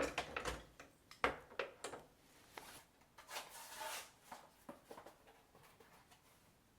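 Items being handled and set down in a kitchen: scattered light knocks and clicks, and a short sliding rustle about three seconds in.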